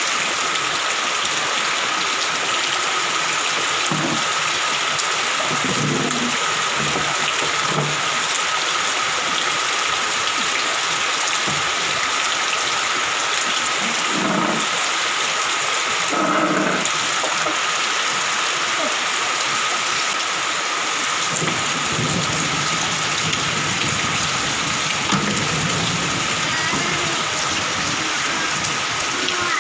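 Heavy rain pouring down steadily, with a few low rumbles of thunder.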